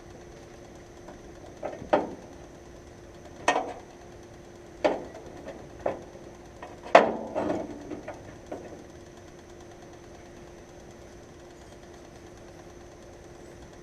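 A string of about eight sharp knocks and clanks, the loudest about seven seconds in, like tools or parts being handled, over a faint steady hum. The knocks stop after about eight and a half seconds.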